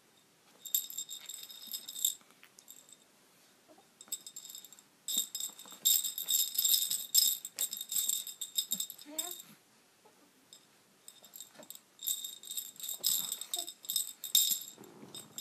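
Baby's rattle toy shaken in bursts, with a bright, jingly ring: a short burst near the start, a long spell of shaking through the middle, and more shaking near the end.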